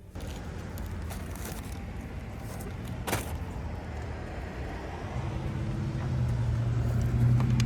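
Road and traffic noise from outside a moving car, starting abruptly, with a sharp click about three seconds in and a low steady hum that grows louder over the last couple of seconds.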